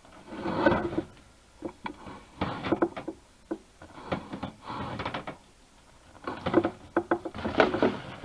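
Irregular knocks and scraping rattles in short clusters about once a second, from a scope camera and its push cable being fed through a metal dryer vent duct.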